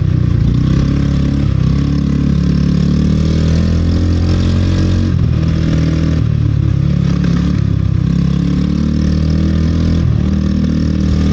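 A vehicle's engine running steadily while driving, a loud low drone with small shifts in pitch.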